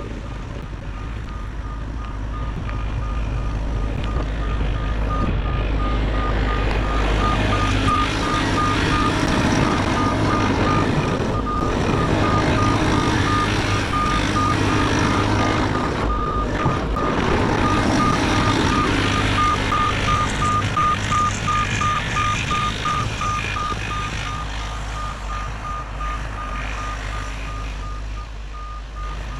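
Bobcat E50 compact excavator's diesel engine running under work while its travel alarm beeps rapidly and evenly, a warning that the machine is tracking. The machine grows louder through the middle and eases off near the end.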